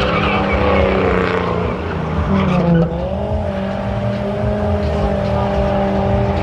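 Truck engine held at high revs with tires squealing, as in a burnout, its pitch steady except for a brief dip about three seconds in.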